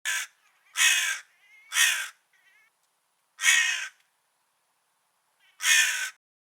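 Crow cawing: five harsh caws, the first short and the rest longer, spaced a second or two apart, with a few faint softer calls between them.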